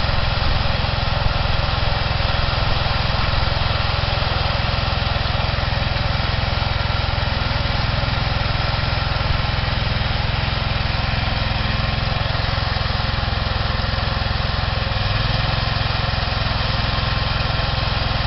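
Massey Ferguson garden tractor's small engine running at a steady speed.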